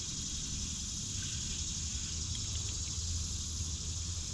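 Steady, high-pitched chorus of summer insects, with a low steady rumble underneath.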